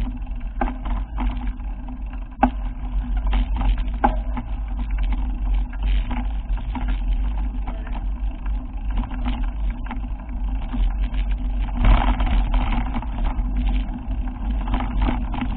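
A moving vehicle: a steady low rumble with frequent short knocks and rattles.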